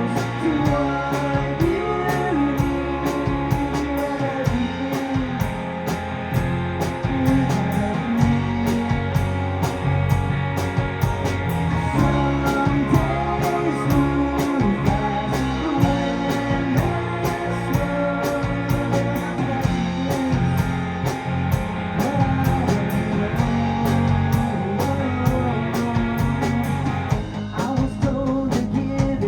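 Live rock band playing a song: electric guitar, bass, keyboards and drums, with a steady drumbeat.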